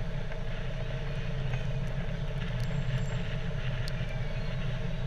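Fire truck engine running steadily with a low, even rumble, and a few faint ticks over it.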